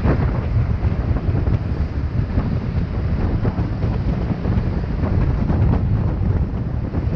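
Heavy wind buffeting on the microphone, a loud steady low rumble with no clear engine note, as on a camera riding along on a moving motorcycle.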